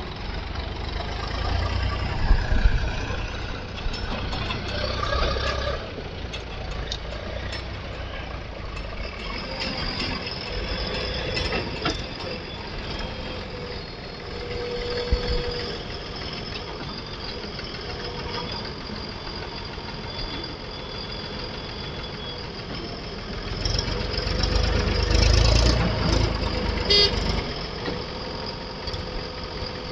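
Diesel engine of a JCB 3DX Plus 74 hp backhoe loader running steadily while loading, revving up under load twice, near the start and again near the end.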